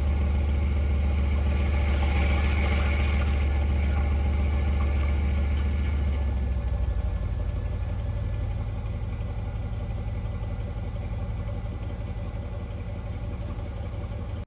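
Mercedes-AMG C63's 4.0-litre twin-turbo V8 idling steadily through its exhaust. About six and a half seconds in, the idle drops to a lower, quieter note.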